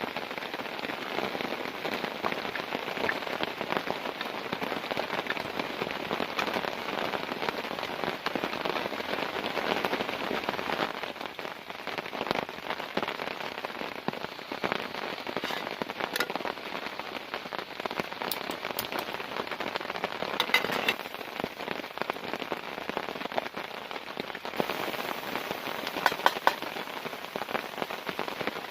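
Heavy rain falling steadily on a tent, a dense hiss of drops, with a few sharper clicks of bigger drops about two-thirds of the way through and near the end.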